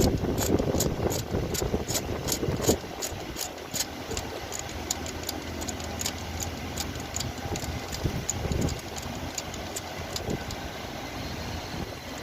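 Socket ratchet clicking at an even pace, about three clicks a second, as a spark plug is turned with it. The clicks fade out after about halfway, leaving a low rumble.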